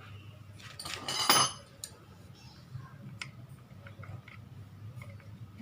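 Metal tools and small parts clinking and scraping during work on a power-window motor, with a louder clatter about a second in and a few light clicks after, over a low steady hum.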